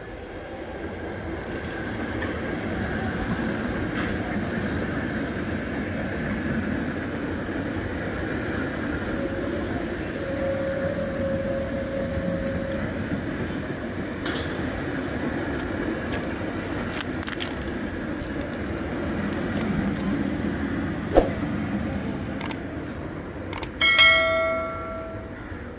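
Electric multiple-unit local train passing close by: a steady rumble and clatter of wheels on the rails, building up in the first couple of seconds. Near the end come a few sharp clicks, then a ringing bell chime from a subscribe-button animation.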